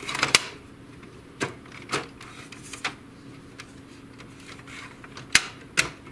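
Sharp plastic clicks and knocks, about six spread unevenly over several seconds, from the front cover and clamp mechanism of an HP DeskJet GT 5820 inkjet printer being worked by hand.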